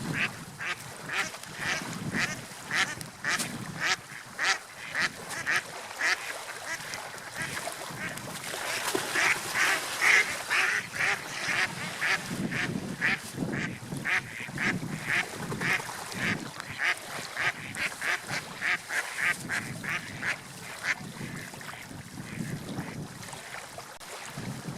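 A bird calling over and over in short calls, about two a second, over a steady wash of water and wind; the calls stop a few seconds before the end.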